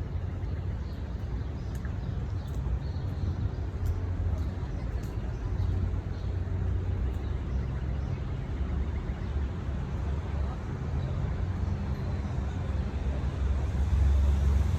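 Outdoor city background: a steady low rumble of distant traffic, getting a little louder near the end.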